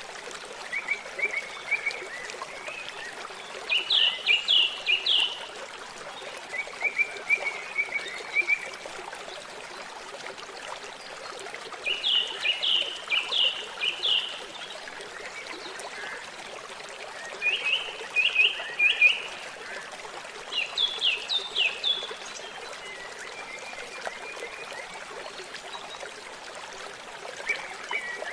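Water trickling steadily, with a bird singing short phrases of quick, downward-slurred high notes, a phrase every few seconds.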